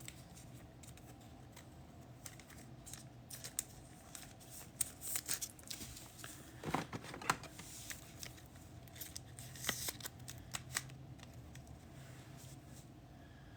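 Trading cards being handled: scattered light clicks, slides and rustles, with a few louder crinkly rustles about halfway through and again about ten seconds in.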